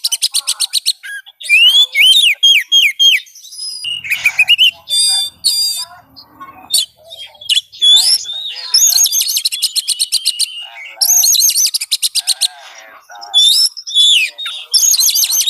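Oriental magpie-robin (kacer) singing a loud, varied song: fast rattling trills alternating with slurred whistled phrases and a few lower warbles. It is song meant as a lure to set another magpie-robin singing in answer.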